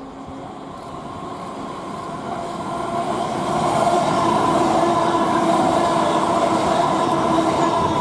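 Train running into or through the station, growing louder over the first four seconds and then holding steady, with a drone of several steady tones over the rumble of the wheels.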